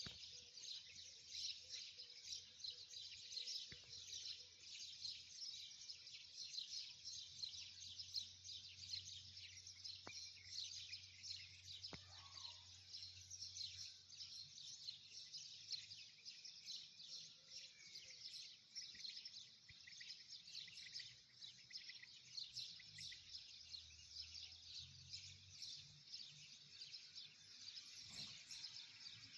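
Faint, continuous chirping of many small birds, a dense chorus of quick overlapping chirps.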